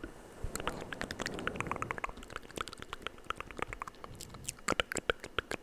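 Close-miked ASMR mouth sounds: a quick, uneven run of wet clicks and smacks, several a second, with a few louder ones near the end.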